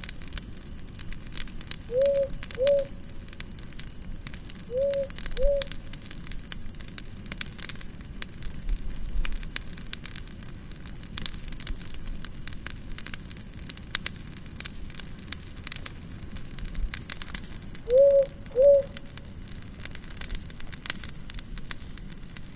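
Campfire crackling with many sharp pops. Over it, a low two-note bird call sounds three times, each pair louder than the fire.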